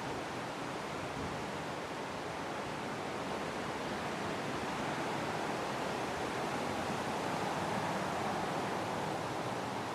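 Wind blowing steadily, a continuous rushing noise that swells a little in the middle and eases slightly near the end.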